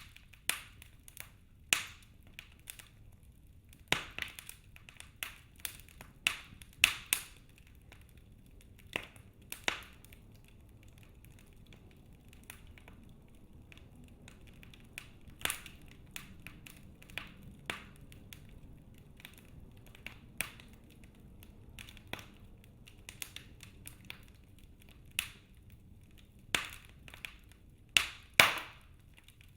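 Wood fire burning in a fireplace: logs crackling with irregular sharp pops, several louder snaps near the end, over a faint low hiss.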